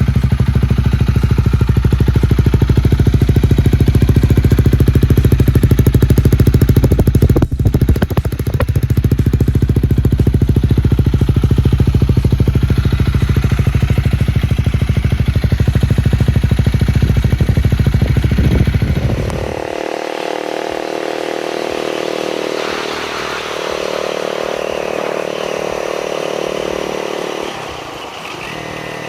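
Honda Rebel 250's single-cylinder engine running steadily with a deep exhaust note, loud, with a short dip about seven seconds in. About twenty seconds in the sound turns quieter and higher-pitched.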